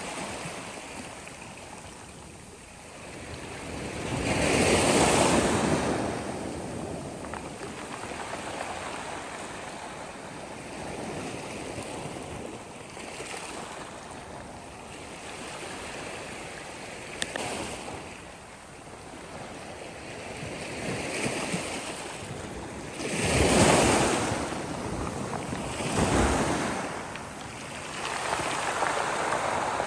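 Sea waves washing onto the shore. The surf swells in louder surges, one about five seconds in and several more over the last seven seconds.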